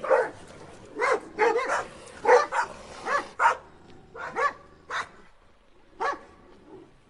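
Dogs barking: quick runs of sharp barks for the first few seconds, then fewer, spaced-out single barks that grow fainter and stop about six seconds in.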